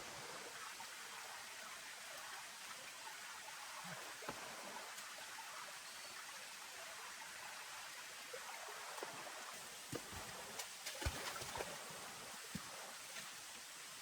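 Steady faint hiss of rain, with scattered sharper taps of drops or small knocks, a run of them in the second half.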